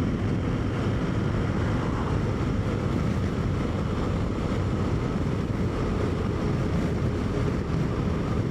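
BMW R1250GS boxer-twin motorcycle running steadily at road speed, mixed with constant wind rush over the microphone.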